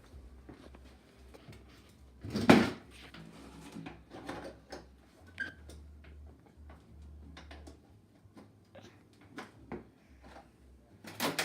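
Scattered knocks and light clicks from things being handled, with one loud knock about two and a half seconds in and a quick run of clicks near the end.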